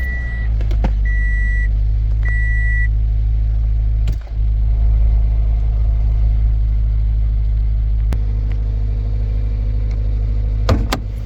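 2006 Toyota Corolla's four-cylinder engine idling roughly, dipping briefly about four seconds in: the rough idle of a cylinder 1 misfire, traced to a bad ignition coil. A car's warning chime beeps three times in the first few seconds, and two sharp clicks come near the end.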